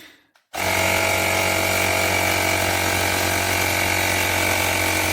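Woowind AP2-P cordless electric tyre pump switching on about half a second in and running steadily with an even motor hum, inflating a bicycle tyre back up to its preset pressure.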